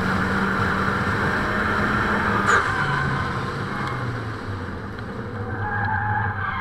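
Car engine pulling at high revs while drifting, with a sharp knock about two and a half seconds in, after which the engine note drops lower, fades a little, then picks up again near the end. A steady hiss runs underneath.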